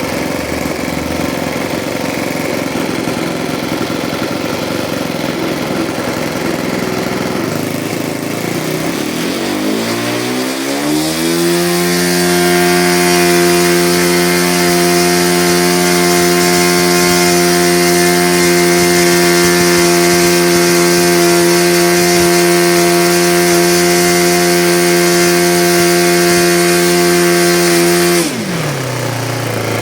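O.S. .56 Alpha four-stroke model-aircraft glow engine turning a 13x4 propeller. It runs at low speed, then revs up over a few seconds to a steady high pitch that holds, and drops back to a low idle near the end.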